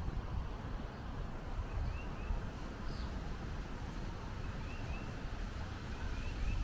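Outdoor ambience of a steady low rumble, with a small bird chirping in quick pairs of short high notes a few times.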